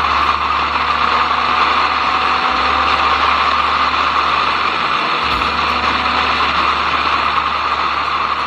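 Motorcycle engine running steadily at speed under heavy wind rush.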